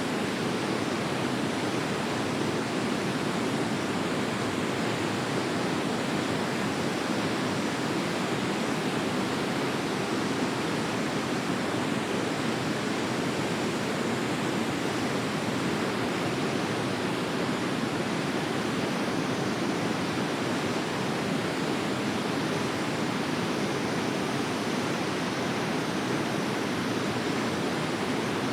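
River water flowing in a steady, even rush that does not change.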